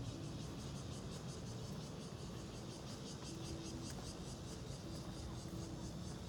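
Insects chirping in a fast, even pulsing rhythm, over a low steady background rumble.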